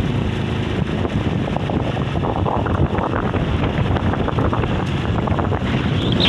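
Strong wind buffeting the microphone in a steady, heavy rumble, the sound of a gale strong enough to lift the beach sand.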